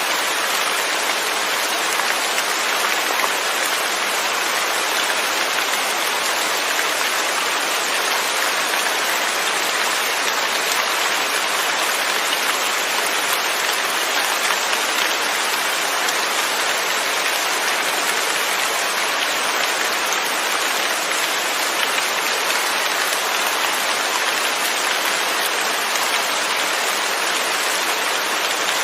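Steady, continuous rain falling, with no thunder.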